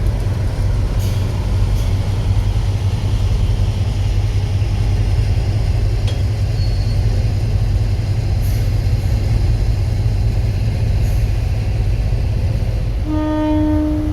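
Preserved diesel locomotive running with a heavy low rumble, then one horn note about a second long near the end.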